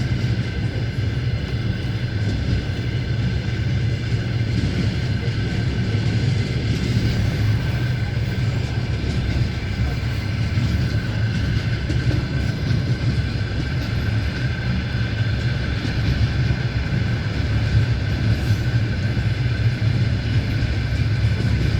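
Passenger train running steadily at speed, heard from inside the carriage: a low, even rumble from the wheels and running gear with a faint steady whine above it.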